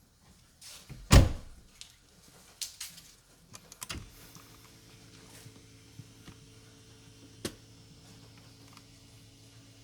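Knocks and clicks of work on a car: one heavy thunk about a second in, then several sharp clicks, then a faint steady electrical hum that starts about four seconds in.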